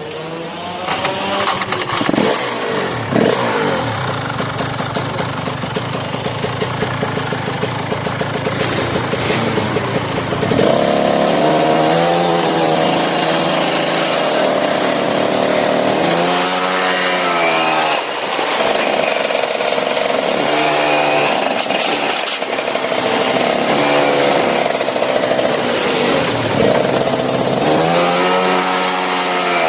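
Go-kart engine running and revving. Its pitch rises and falls again and again as the kart speeds up and slows. It gets louder about a third of the way in.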